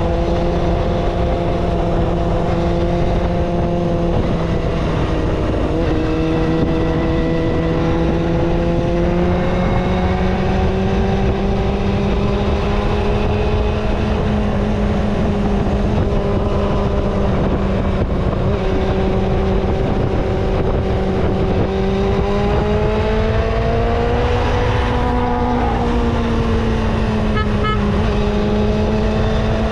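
Kawasaki ZXR250's inline-four engine running steadily at cruising revs while being ridden, its pitch drifting slowly up and down with a small rise about 24 seconds in, over a constant rush of wind and road noise.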